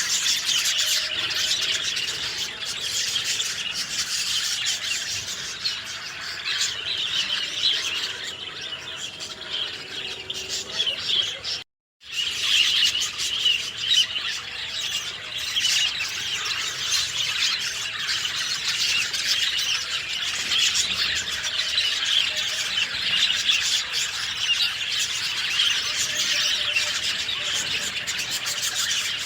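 A dense chorus of many small songbirds chirping and twittering at once, with no music added. About twelve seconds in the sound cuts out completely for a moment, a splice in the recording, then the chorus carries on.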